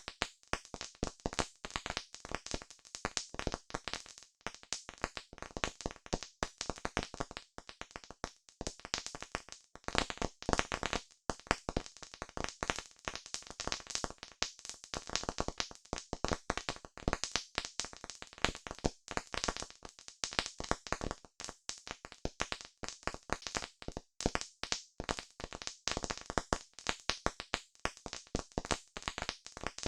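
Campfire wood burning with dense, irregular crackling and popping, many sharp snaps a second.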